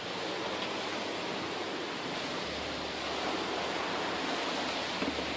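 Extreme tornado winds blowing as a steady, dense rushing noise.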